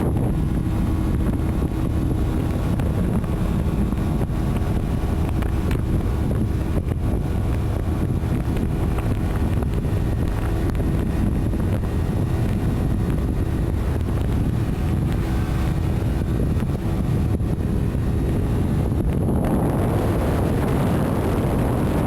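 Vehicle travelling along a road: a steady low rumble of road noise and wind buffeting the microphone, with a faint steady hum through much of it.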